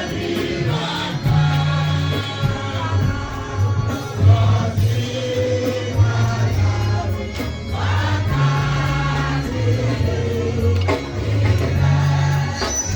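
Gospel music: a choir singing over a band, with a prominent bass line.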